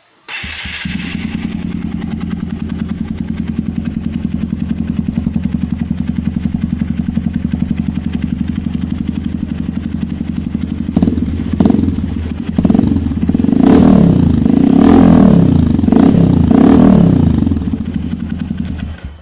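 Honda CRF150L single-cylinder four-stroke engine running through a Prospeed racing exhaust with a twin muffler: it starts about half a second in, idles steadily, then is revved in a series of throttle blips from about eleven seconds on, and cuts off just before the end.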